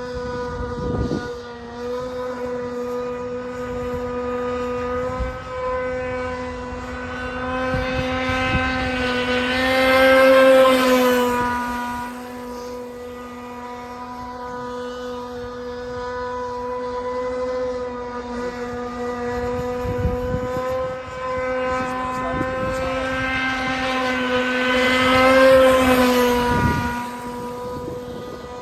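Tiger King 26 open-port two-stroke engine of an RC boat running at steady high revs. It grows loud twice as the boat passes close by, and its pitch drops a little just after each pass.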